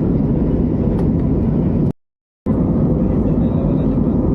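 Airliner cabin noise in flight: a loud, steady low rush of jet engines and airflow. It cuts out completely for about half a second about two seconds in.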